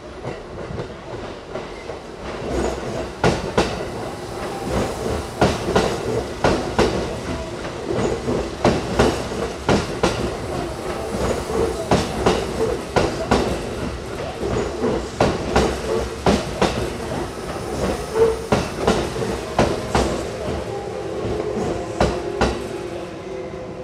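Electric commuter train rolling along the platform, its wheels clacking over the rail joints in quick irregular clicks over a steady rumble, with a faint steady whine. The sound builds about two seconds in and eases near the end.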